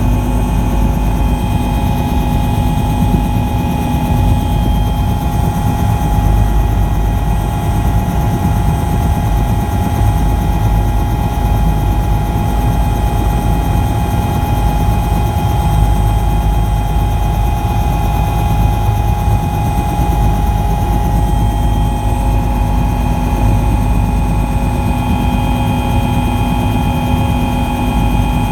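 Helicopter running steadily, a constant loud drone of turbine and rotor with a steady high whine over it.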